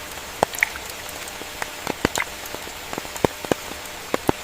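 Rain falling, with individual drops striking close by at irregular intervals over a steady hiss.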